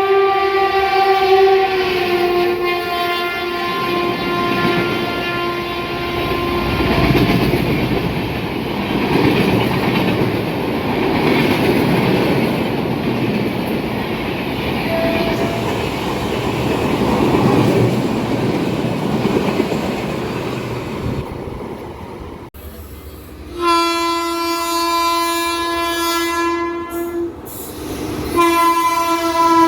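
Indian Railways train running through a station at speed without stopping: the locomotive's multi-tone horn sounds, dropping in pitch about two seconds in as it passes, then the coaches rumble and clatter over the rails for about fifteen seconds. Near the end a horn sounds again, in one long blast and then a second.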